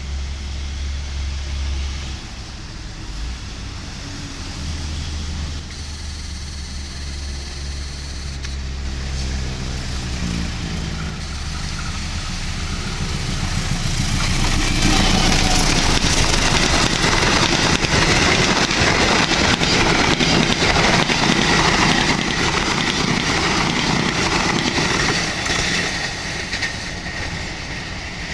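Diesel locomotive hauling a passenger train: the low engine hum of its approach, then about halfway the train passes close. Its wheels clatter rhythmically over the rail joints with a high steady whine, fading near the end as the last coaches go by.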